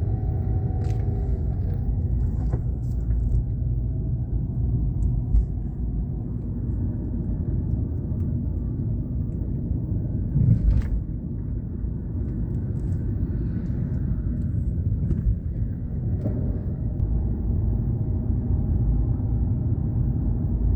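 Steady low rumble of a moving vehicle, with a few faint clicks and a short swell about ten seconds in, cutting off suddenly at the end.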